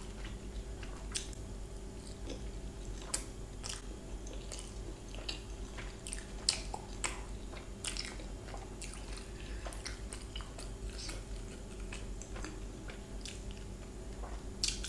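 Close-up chewing of a steamed paneer momo: soft, wet chewing with scattered mouth clicks and smacks.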